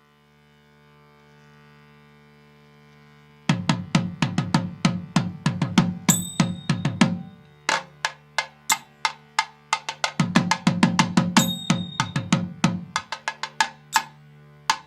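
A pitched drum played in quick rhythmic strokes over a soft steady drone, starting about three and a half seconds in. The strokes slacken to a slower beat in the middle, then come fast again. A few strokes carry a high metallic ring.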